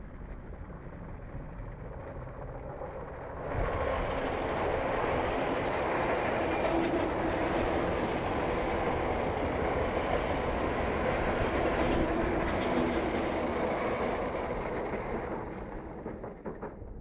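Greater Anglia electric multiple-unit train passing close by on the near track. A low rumble as it approaches swells suddenly into loud, steady wheel-and-rail noise about three and a half seconds in. The noise fades away near the end.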